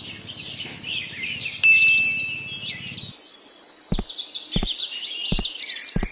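Small birds chirping in quick high, repeated chirps, with four short knocks in the second half.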